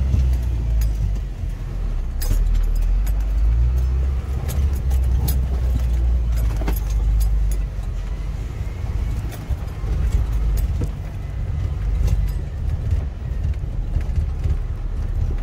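Fire engine's engine running with a steady low rumble, with scattered light clicks and rattles over it.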